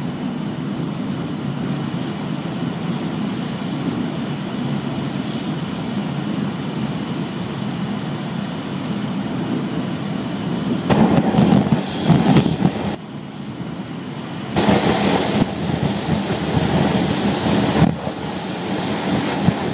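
E5 series Shinkansen heard from inside the passenger car while running at speed: a steady rumble of wheels, track and air. About halfway through it turns louder and rougher, dips briefly for a second or so, then comes back loud.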